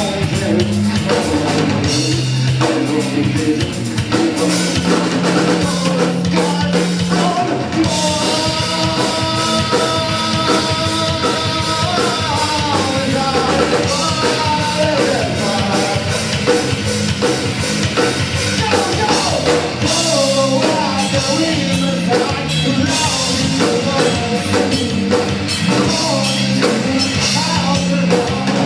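Rock band playing live: drum kit, distorted guitars and bass, with singing. A sustained vocal or guitar melody is held from about eight seconds in.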